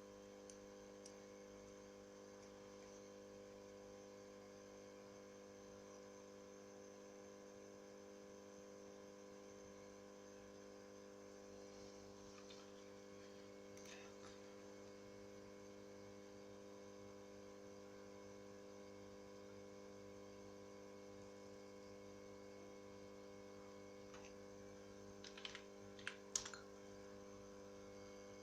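Near silence over a steady electrical hum, with a few faint clicks in the middle and a short cluster of sharper clicks near the end.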